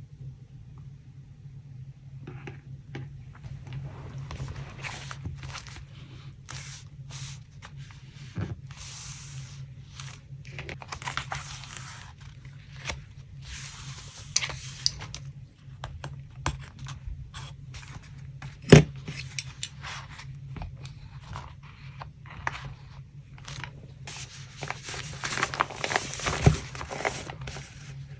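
Paper being handled for a collage: irregular crinkling, scraping and tearing of paper, with one sharp tap or click about two-thirds of the way through. A steady low hum runs underneath.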